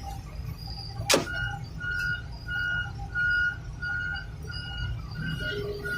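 Heavy-equipment backup alarm beeping at one steady pitch, about two short beeps a second, with a single sharp knock about a second in.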